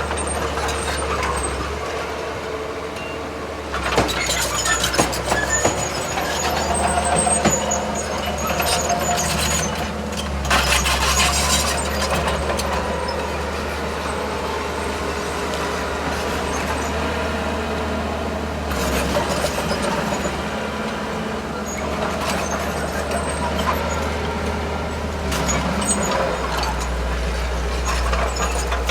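Heavy diesel earthmoving machinery, a D31P crawler bulldozer and dump trucks, working: a continuous low engine drone with several loud noisy bursts, the first about four seconds in and another about ten seconds in.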